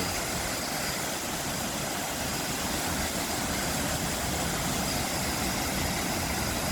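Waterfall rushing steadily, an even wash of falling water with no change in level.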